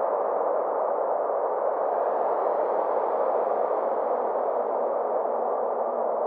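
Synthesized space ambience: a steady, even band of filtered noise with faint thin tones sweeping slowly up and back down above it.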